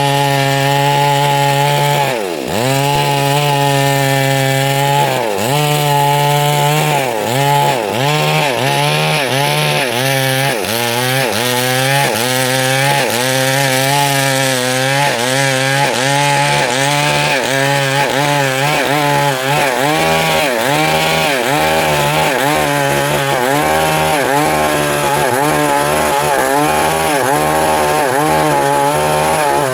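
Stihl MS 382 two-stroke chainsaw running at high revs while cutting through wood. Its pitch dips and recovers again and again as the chain loads in the cut, at first a few seconds apart, then about once or twice a second from about ten seconds in.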